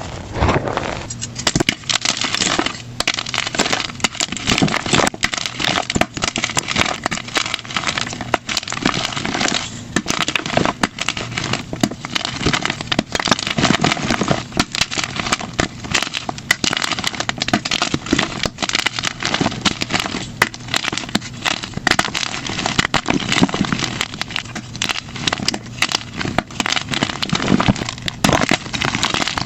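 Blocks of plain gym chalk crushed and crumbled by hand, a dense, unbroken crunching and crackling, played back at double speed.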